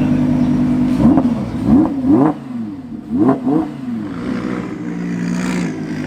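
Car engine idling, then revved in a series of about five short throttle blips, each rising and falling quickly, before settling back to idle.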